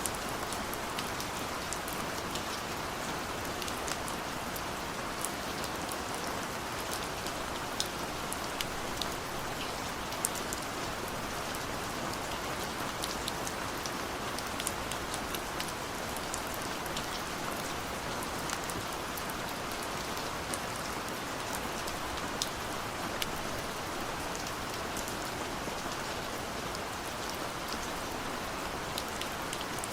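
Steady rain falling, an even hiss with many scattered sharp ticks of drops hitting surfaces.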